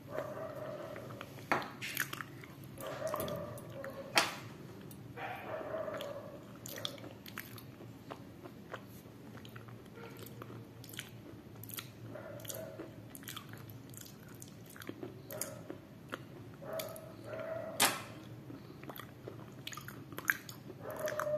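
Close-miked chewing and crunching of a thick, dry white crunchy food item: repeated sharp bites and crunches with steady chewing in between, the loudest crunches about four seconds in and near the end.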